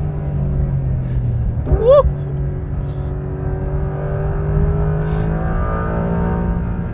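Porsche 911 GTS T-Hybrid's 3.6-litre flat-six engine pulling under acceleration, its note climbing slowly and steadily in pitch. About two seconds in, a short rising-and-falling exclamation briefly cuts across it.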